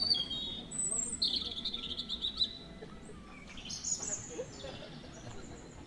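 Birds chirping and calling: a few short high chirps, then a longer wavering call from about one to two and a half seconds in, and a falling call about four seconds in.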